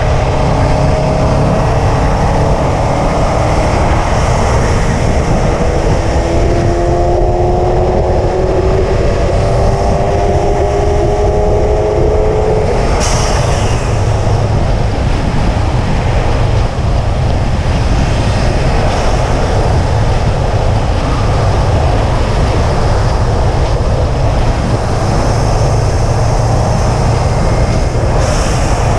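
2005 Subaru WRX wagon's turbocharged 2.0-litre flat-four pulling at highway speed under heavy road and wind noise, its note rising slowly for about twelve seconds and then holding steady. There is a single sharp click about thirteen seconds in.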